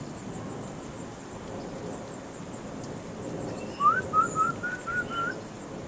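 Low rumble of thunder dying away. About four seconds in, a quick run of six short whistled notes stands out, the first sliding up and the rest level.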